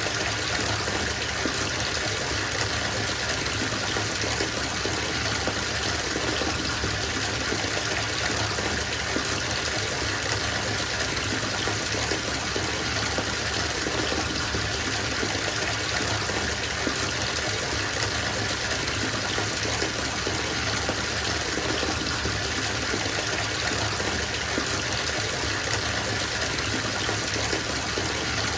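Bathtub filling from the tap: a steady gush of running water pouring into the tub.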